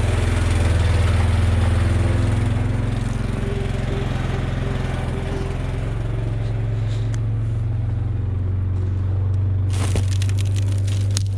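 ATV engine running steadily, its note shifting slightly about eight seconds in, with a few sharp clicks about ten seconds in.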